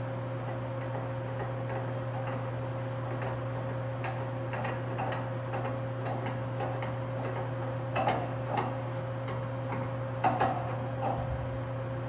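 CNC lathe running a threading pass: a steady machine hum with light, irregular ticking, and a few sharper clicks about eight and ten seconds in.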